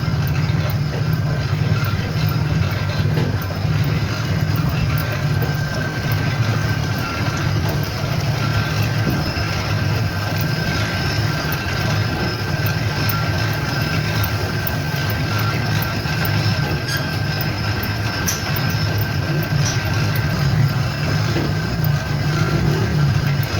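Steady machinery running: a continuous low hum with a faint steady high tone over it.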